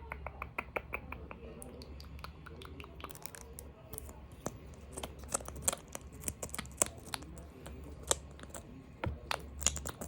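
Small objects tapped and handled close to the microphone for ASMR: a quick run of light ticks at the start, then irregular sharp clicks and taps, over a low steady hum.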